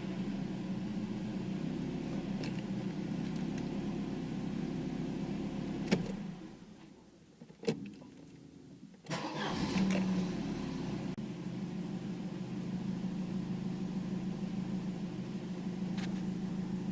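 Mercedes-Benz W124's 2.0-litre M102 four-cylinder engine with KE-Jetronic mechanical injection idling steadily. About six seconds in there is a click and the engine runs down to a stop. After a second click it is restarted about three seconds later, catching at once and settling back into a steady idle.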